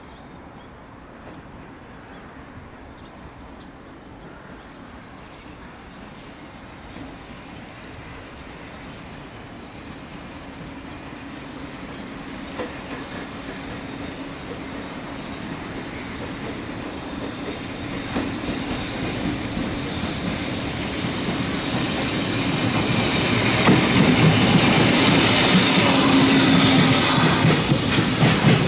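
An EF65 electric locomotive hauling a container freight train approaches and passes, its sound growing steadily louder over about twenty seconds. In the last few seconds the container wagons' wheels clatter over the rails as they go by.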